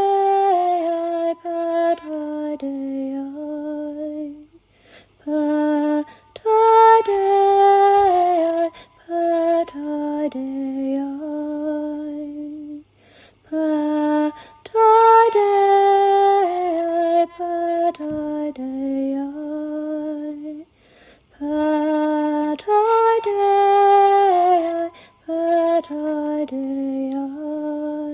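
Solo female voice singing a slow, unaccompanied devotional chant in long held notes that step down in pitch, the same phrase coming round about every eight seconds with short breaths between.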